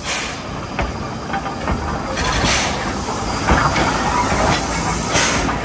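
A train moving on the track, wheels clattering over the rails, with bursts of hissing: a stronger one about two and a half seconds in and another near the end.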